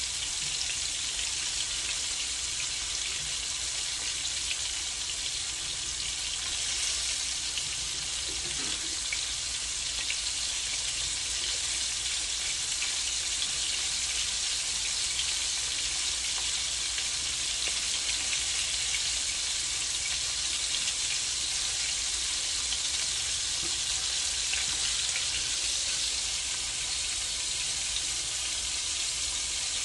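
Ground meat patties frying in a pan: a steady sizzle with fine crackling throughout.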